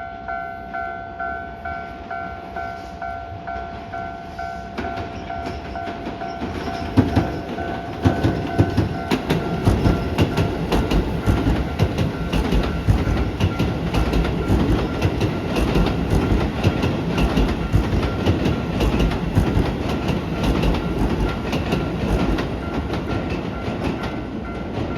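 Level-crossing warning bell ringing steadily. From about seven seconds in, a Hokuso 7500-series electric train runs over the crossing, its wheels clattering rhythmically over the rail joints, loud and continuous to the end.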